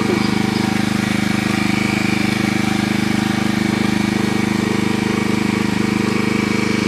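An engine running steadily at an unchanging speed, with a fast, even beat.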